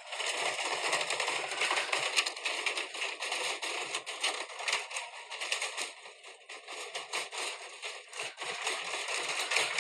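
Privileg washing machine giving off a dense, irregular rattling and crackling clatter, a machine in the middle of breaking down.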